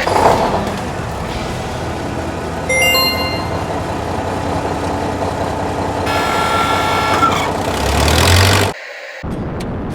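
Steady rushing rocket-engine noise for a toy space shuttle in flight, with a few faint electronic tones partway through. It cuts off sharply near the end.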